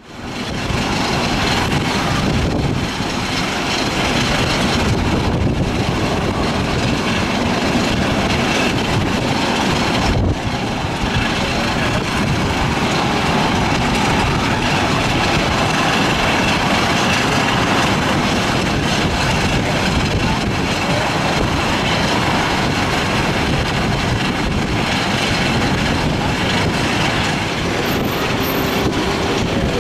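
Steady roar of a jet airliner's engines mixed with strong wind buffeting the microphone, a loud rumble that holds level throughout.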